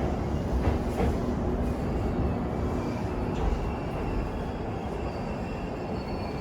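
Electric commuter train running through a station: a steady rumble with a pair of wheel clicks over rail joints about a second in, and a few high thin tones coming in near the end.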